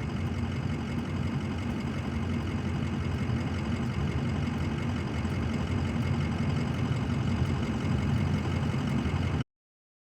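A vehicle running, heard from inside the cab: a steady low engine and road noise that cuts off abruptly about nine seconds in.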